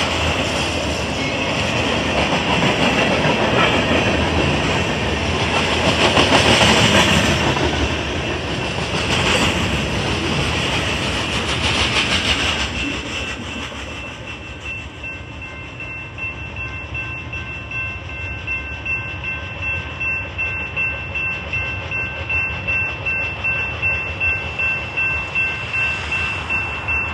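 A freight train of autorack cars rolling past at speed, its wheels clattering on the rails, until about 12 seconds in, when the train noise fades away. The railroad crossing bell then rings on, about one and a half strikes a second.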